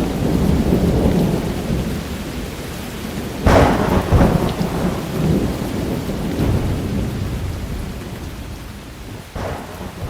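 Thunderstorm: steady heavy rain with rolling thunder, a sharp thunderclap about three and a half seconds in and another near the end, the rumble slowly dying down.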